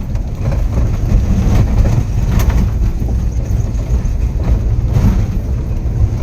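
Inside a vehicle's cabin: a steady low rumble of the engine and tyres on a rough, potholed dirt road, with scattered knocks and rattles as the vehicle jolts over bumps.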